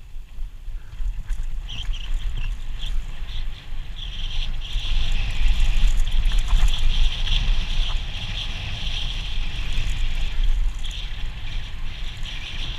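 Wind buffeting the microphone with a low rumble, under a steady high hiss that grows louder in the middle and eases off near the end.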